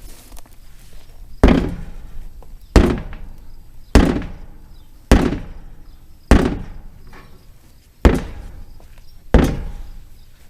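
A sledgehammer striking an inflated tractor tire again and again to force its bead onto the rim. There are seven heavy blows about a second apart, each dying away quickly.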